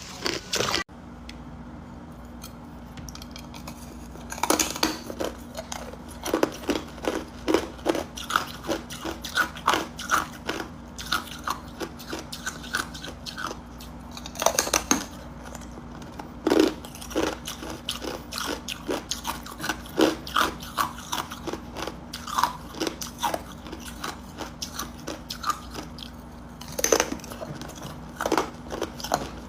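Hard ice cubes being bitten and chewed close to the microphone: a run of irregular crunching and cracking, with a few louder bites that crack the ice.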